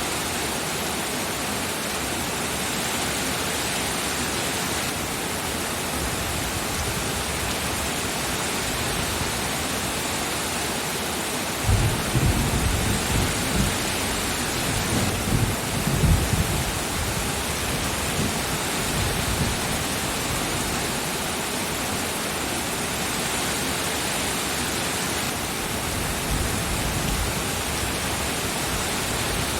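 Steady, even downpour of rain. About twelve seconds in, a low rumble of thunder rolls in uneven swells for about five seconds, then fades back under the rain.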